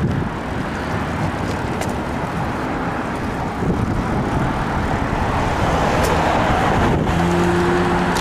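Rush-hour road traffic: cars and engines running past on a busy street. A steady droning engine tone comes in about seven seconds in.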